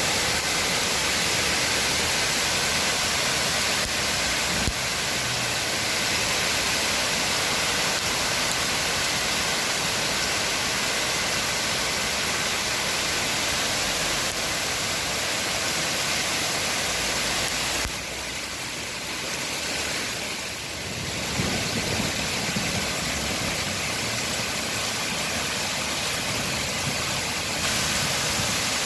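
Heavy rain and hail falling, a dense, steady hiss that dips briefly about two-thirds of the way through.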